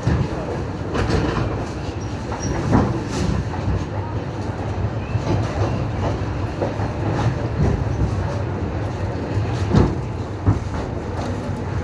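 Train wheels clacking over the rail joints while the train runs along, heard from aboard. A steady low rumble carries through, with sharp knocks at uneven intervals, two of them close together near the end.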